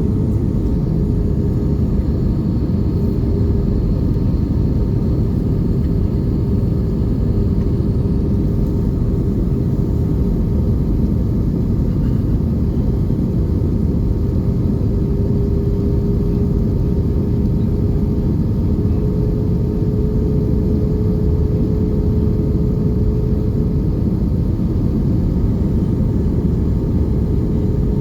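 Airbus A320 cabin noise: a steady low roar of the jet engines and airflow, with a faint steady hum over it.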